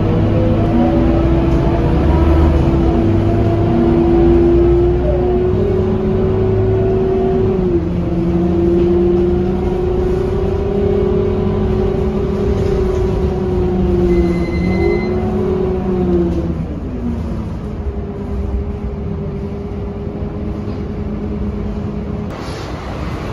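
Scania K230UB city bus under way, its engine and driveline whine rising with speed, stepping down at a gear change about 8 seconds in. The whine falls away as the bus slows about 16 seconds in, then runs on steady and lower, with a short click near the end.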